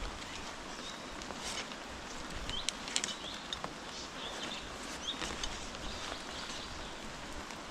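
Steady hiss of rain with repeated short, high-pitched bird chirps and a few scattered taps.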